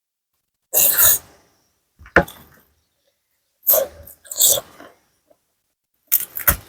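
Close-miked eating noises from a person eating spicy papaya salad: five short, sharp bursts of slurping and sucking breath, about a second apart.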